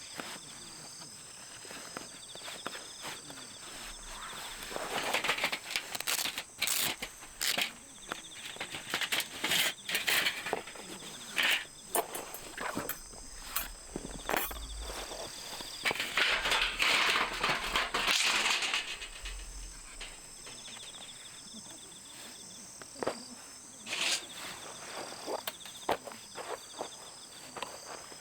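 Autumn night insects, bell crickets among them, chirping steadily. From about four to twenty seconds in, a busy stretch of rustling, clicks and crunching, as of someone moving about close by, covers them; it is loudest just before the end of that stretch.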